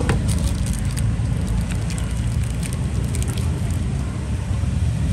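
Steady low rumble of passing road traffic, with a few faint light clicks in the first few seconds.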